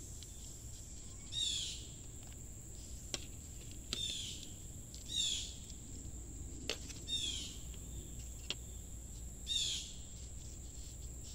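A bird repeatedly giving a short, rippling, falling call every second or two, over a steady high insect drone. A few sharp clicks fall in between.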